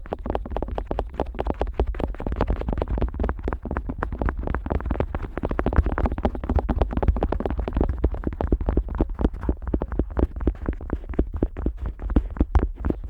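An otoscope rubbing and scraping against the outer ear of a Neumann KU100 dummy-head microphone, heard from right at the ear: dense, rapid scratchy rubbing strokes over a low rumble of handling.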